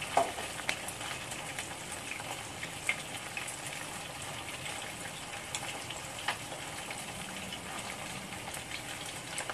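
Mantis shrimp sizzling steadily in oil in a wok, with a few sharp clicks as a spatula and chopsticks touch the pan.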